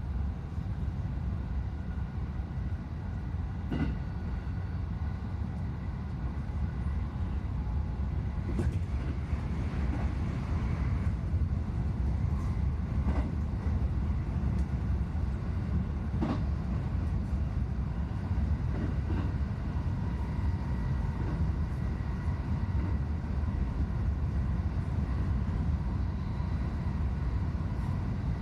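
Electric train running, heard from inside the passenger car: a steady low rumble that grows a little louder after about eight seconds, with a few sharp clicks from the wheels and track.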